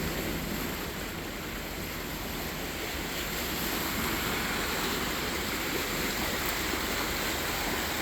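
Choppy canal water sloshing and splashing, with wind on the microphone; a steady rush of noise.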